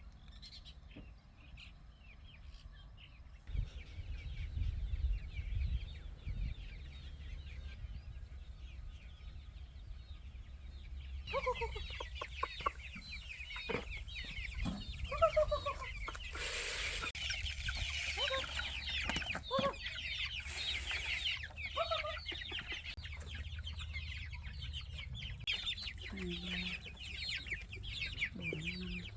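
Chickens clucking, with busy high chirping that grows louder and thicker partway through. Two short hissing bursts of noise come around the middle, over a low rumble.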